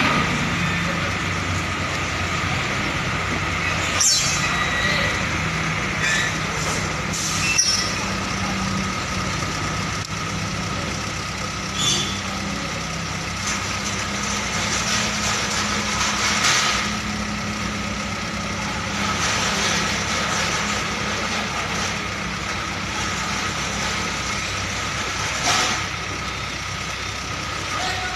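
Truck's diesel engine running steadily while manoeuvring, with several short hisses of air, typical of air-brake releases.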